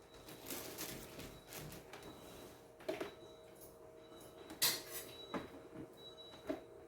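A few scattered knocks and clatters of kitchen items being handled, the loudest just under five seconds in, over a faint steady hum.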